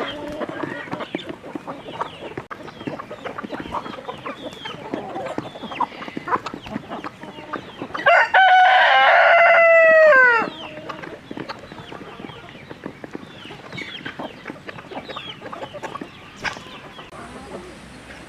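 A flock of chickens clucking and chirping, with many short calls overlapping throughout. About eight seconds in, a rooster crows once, loudly, for about two and a half seconds, the crow falling in pitch at its end.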